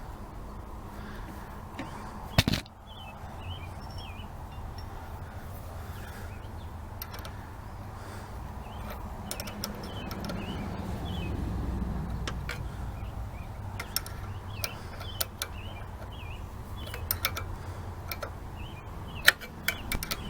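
Small parts and hand tools being handled on a string trimmer: scattered clicks and knocks, with one sharp knock about two and a half seconds in, over a low steady hum.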